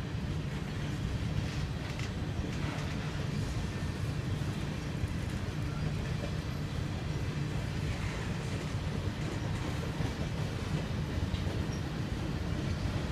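Freight train of covered grain hopper cars rolling past at a steady pace: a steady low rumble of steel wheels on the rails.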